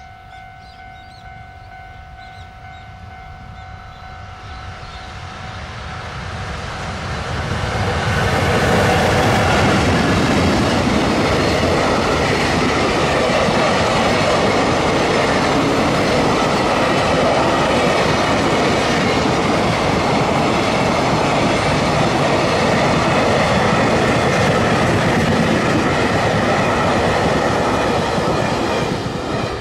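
A long electric-hauled container freight train approaches, then passes close by for about twenty seconds, its wheels running steadily over the rails. The sound starts falling away near the end.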